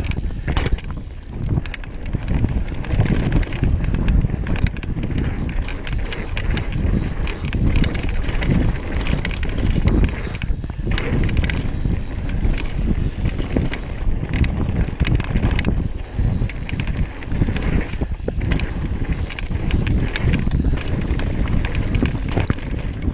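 Mountain bike ridden fast down a rough dirt trail: a steady rush of wind and tyre noise, with frequent rattles and knocks from the bike over roots and bumps.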